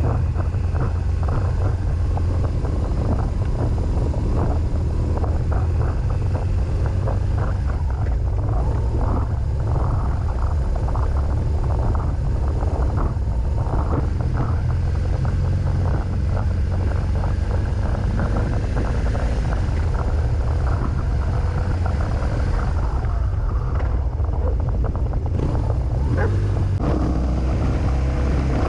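Motorcycle running on the move: a steady, loud low engine rumble with wind buffeting the microphone.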